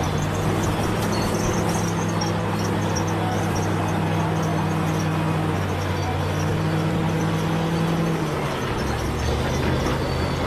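Bulldozer's diesel engine running steadily under load, with light metallic clicking above it; the engine note drops briefly near the end.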